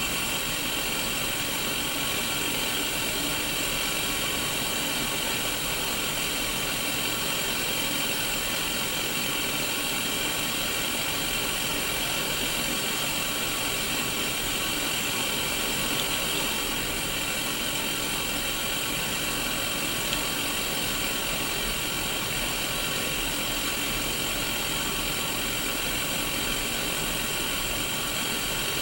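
Steady static hiss from a Sony Mega Watchman black-and-white mini CRT television showing white noise, an even rushing sound that is brightest in the upper middle range and never changes.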